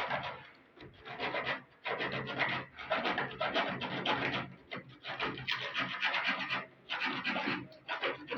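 Repeated rubbing or scraping strokes, roughly one a second, each lasting about half a second to a second.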